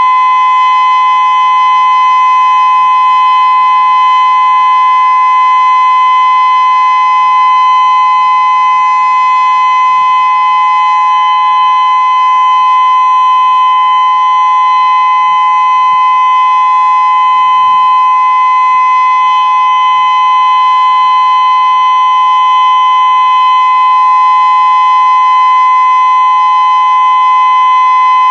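Federal Signal Modulator 6024B electronic outdoor warning siren sounding a loud steady tone, its pitch held level without rising or falling.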